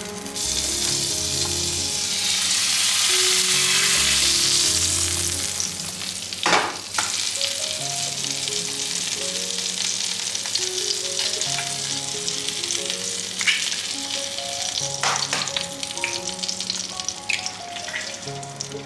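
Food frying in a hot pan, sizzling. The sizzle is loudest over the first few seconds and then settles to a steady sizzle, with a few sharp knocks.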